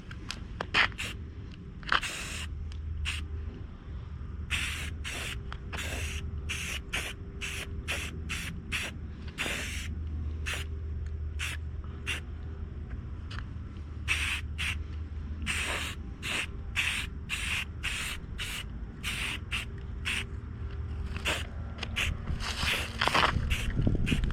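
Rust-Oleum aerosol spray-paint can hissing in many short bursts, a fraction of a second each, with a few longer sprays, as paint is sprayed on.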